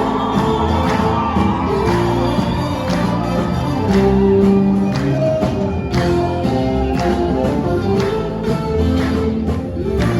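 Ethiopian gospel mezmur: singing over a band with a steady percussion beat, with held notes and an audience crowd sound under it.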